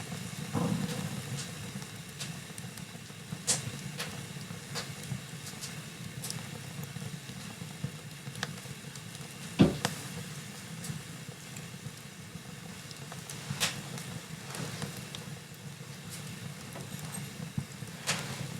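Wood fire burning in a fireplace: a steady low rumble of flames with scattered crackles and pops, one sharp pop about ten seconds in.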